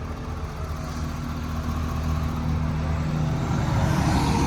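Ford F550 diesel engine idling steadily, a low even hum that grows gradually louder.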